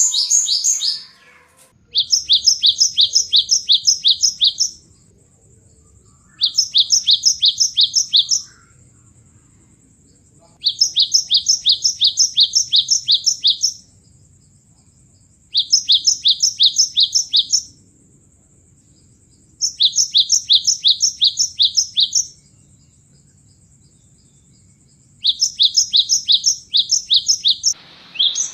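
Cinereous tit (gelatik batu) song, used as a lure: rapid two-note phrases repeated in six even bursts of two to three seconds, with short pauses between. A faint steady high tone runs underneath.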